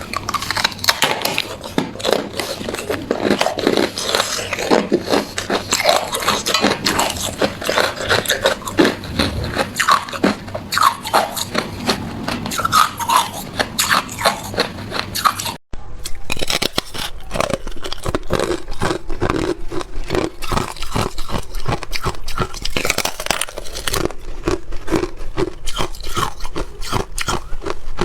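Hard clear ice being bitten and chewed, a dense run of sharp cracks and crunches, with a momentary gap just past halfway.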